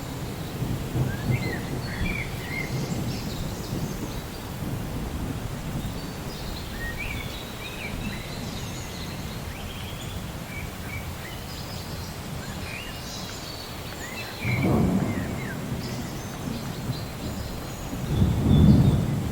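Rainforest thunderstorm ambience: low rolling thunder over a steady hiss of rain, with scattered short bird chirps and calls. The thunder swells about fifteen seconds in and again, louder, near the end.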